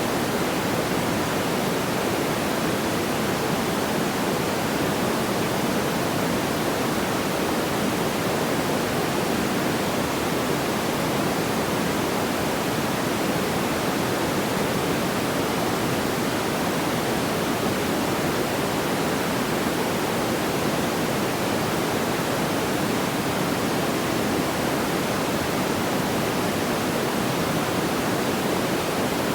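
A steady, even rushing noise, fullest in the low-middle range, with no distinct crackles or pops and no change in level.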